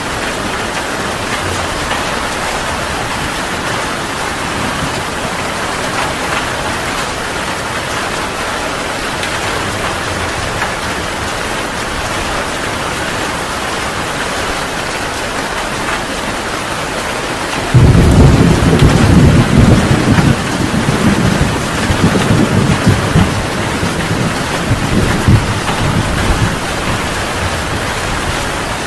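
Heavy rain falling steadily. About two-thirds of the way through, a sudden loud thunderclap breaks in and rumbles on unevenly for several seconds, slowly fading.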